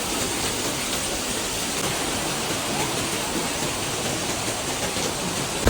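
Steady rushing of water, an even hiss that holds at one level throughout.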